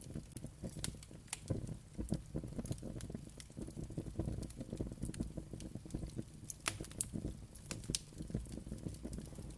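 Wood fire crackling: irregular sharp pops and snaps over a low rumble of flames.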